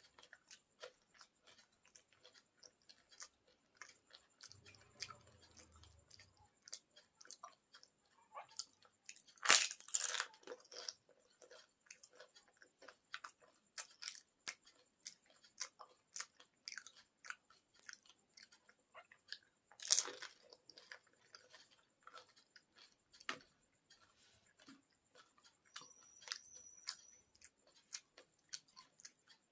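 Close-up chewing of panipuri: crisp fried puris crunching between the teeth, with many small clicks of chewing. Two louder crunching bites come about ten and twenty seconds in.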